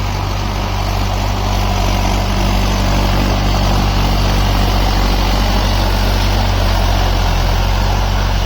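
Tractor diesel engine running at a steady, even speed, a low constant drone.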